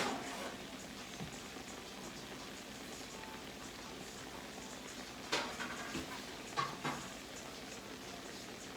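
Oil sizzling steadily in a frying pan, with a few sharp clinks and knocks of cookware: one at the start, a few about five seconds in and two near seven seconds in.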